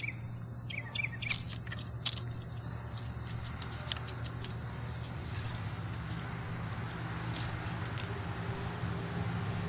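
Scattered light clicks and taps of parts being handled, most of them in the first few seconds, over a steady low hum.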